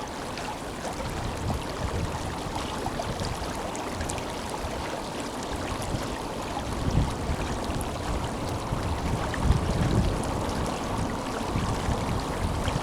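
The Tenryū River's water rushing and burbling steadily, a strong, powerful flow, with occasional low buffets of wind on the microphone.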